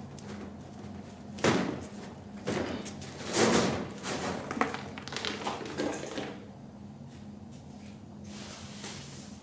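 Several knocks and scraping rustles, one about a second and a half in and a busier run between about three and six seconds, over a steady low hum.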